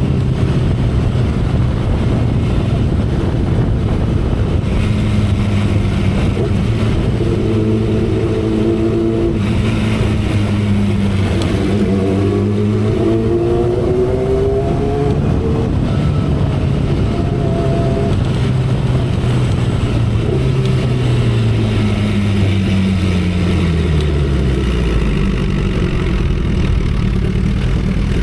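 2012 Kawasaki Ninja ZX-10R's inline-four engine under way with wind rush, its pitch climbing about halfway through as it pulls, then falling steadily near the end as it slows.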